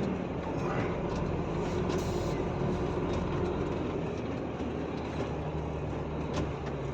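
Truck engine running steadily with tyre and road noise, heard from inside the cab while driving.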